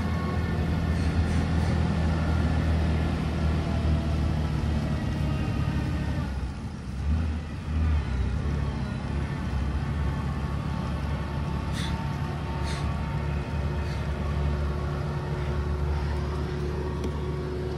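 Motor vehicle engine running steadily on the road, a deep hum that dips briefly about six seconds in, with two short high chirps around twelve seconds in.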